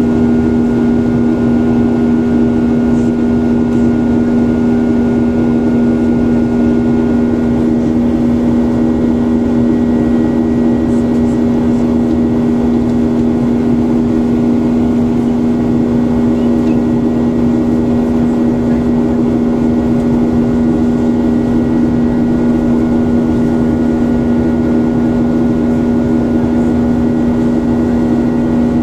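Airliner cabin noise: the jet engines' steady drone heard from inside the passenger cabin, a constant low hum over a rushing noise, with no change in pitch or level.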